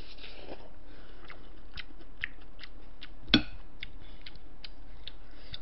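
Close-miked chewing with small wet mouth clicks, and one sharp clink of a spoon against a ceramic dish about three seconds in.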